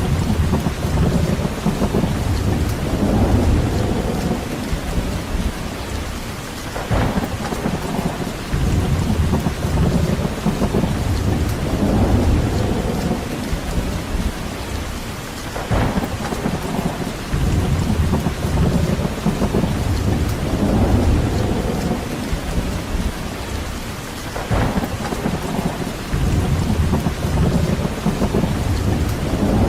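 Steady rain falling, with a low rumble that swells and fades every few seconds. A brief sharp crackle comes about every nine seconds.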